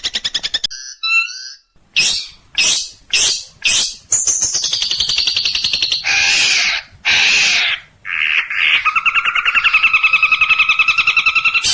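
Long-tailed shrike (cendet) singing a varied, harsh song, loud and close. A fast trill ends at the start, four sharp calls follow, then long harsh rasping notes, and a fast rattling trill runs from about two thirds of the way in.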